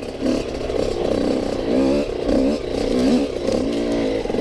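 Yamaha YZ85 two-stroke dirt bike engine being ridden, revving up and down with the throttle so that its pitch rises and falls again and again.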